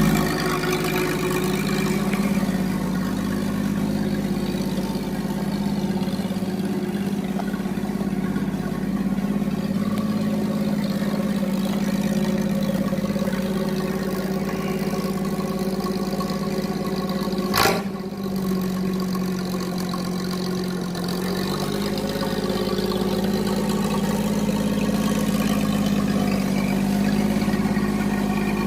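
Rat rod truck's engine idling steadily. About two-thirds of the way through there is a single sharp knock, and the idle runs a little quieter for a few seconds after it.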